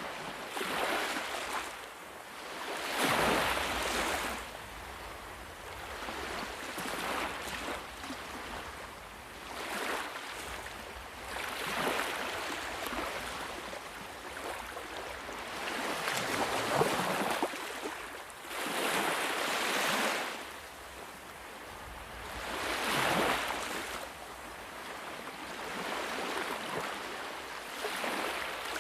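Ocean waves breaking and washing onto a shore. The wash swells and falls in repeated surges every few seconds.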